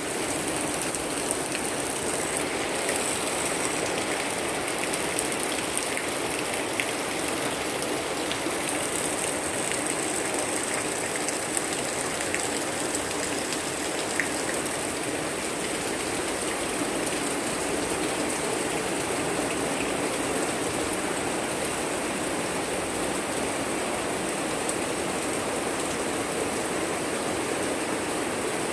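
Steady rain falling, an even hiss with now and then a single sharper drop.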